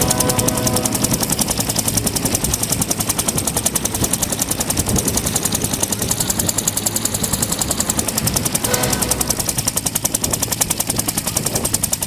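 Bell 204 / UH-1 Huey helicopter's two-bladed main rotor beating in flight, heard from on board: a loud, rapid, even thudding pulse that does not let up.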